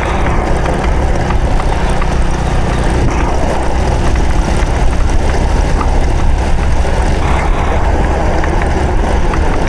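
Honda Supra X 125 FI's single-cylinder four-stroke engine running steadily under way, heard from the riding motorcycle with road and wind noise.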